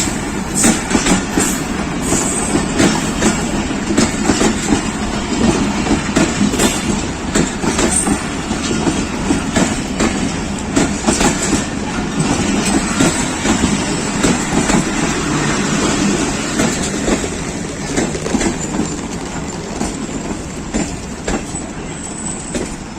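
Coaches of an arriving express passenger train rolling past, with a continuous clatter of wheels over the rail joints and some wheel squeal. It gets gradually quieter over the last several seconds.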